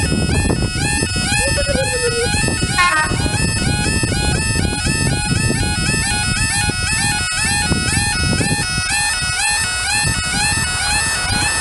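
Bagpipes playing a fast tune, the melody stepping quickly between notes with short grace-note flicks.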